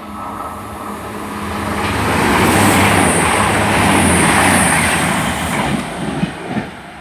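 A Voyager diesel multiple unit passes through the station at speed without stopping. Its engine note and the wheel and rail rumble swell to their loudest about three to five seconds in, then fade away.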